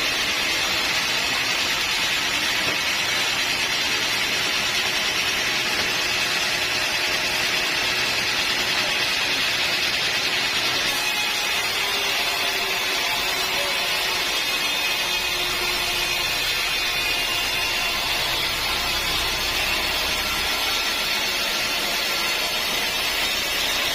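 Sawmill saw running steadily through a log of old teak wood.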